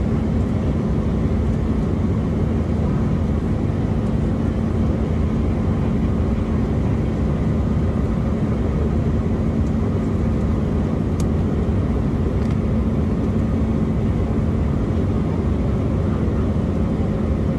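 Steady in-flight cabin noise inside an Embraer E175 airliner: the even roar of its engines and the air rushing past the fuselage, with a steady low hum running under it.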